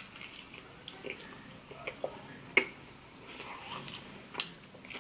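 Close-up eating sounds of a man chewing a soft, frosted cinnamon roll: quiet wet, sticky chewing with a couple of sharp mouth clicks, one midway and one near the end.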